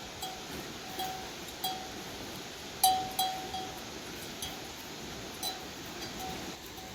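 Livestock bells clinking irregularly as the grazing animals move, about a dozen uneven strikes, the loudest about three seconds in.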